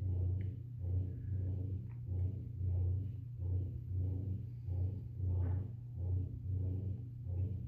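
A person gulping down a glass of cold water without pause: a steady run of swallows, nearly two a second.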